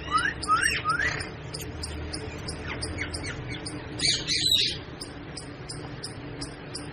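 Pet parrot calling: three quick rising squawks in the first second, then a louder burst of calls about four seconds in, over steady faint high chirping.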